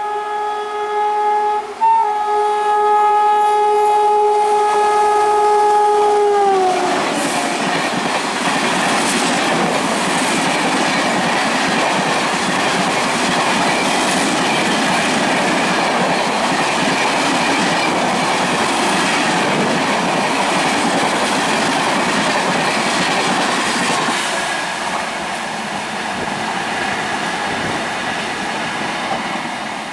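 Locomotive horn of an express train held in one long blast, its pitch dropping suddenly as the engine passes. The coaches then run past at speed, a steady rush with wheel clatter that eases off near the end.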